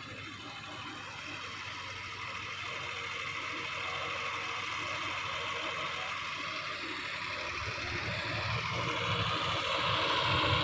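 Tractor engine running and gradually growing louder, with a deeper engine rumble building up about three-quarters of the way through, as the tractor with its loaded trolley comes down the ramp.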